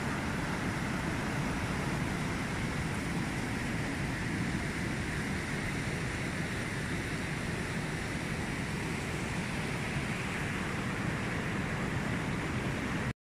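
Steady rush of flowing water, an even noise at one level throughout.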